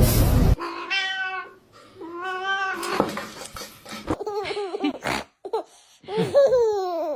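A domestic cat meowing repeatedly: about five drawn-out meows, the later ones rising and then falling in pitch.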